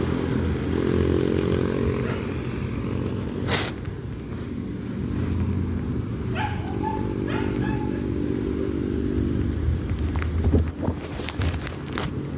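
A dog barking and yelping by the roadside over the steady drone of motor traffic, with a few sharp knocks.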